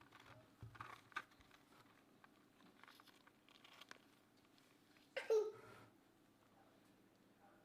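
Faint small clicks and rustles of handling during syringe feeding, with one brief squeak about five seconds in.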